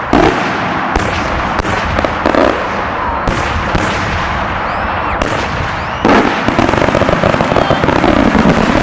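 Multi-break aerial firework shells bursting overhead in rapid succession. Many sharp bangs sound over a continuous crackle, and a few short whistles glide up and down. The barrage grows louder about six seconds in.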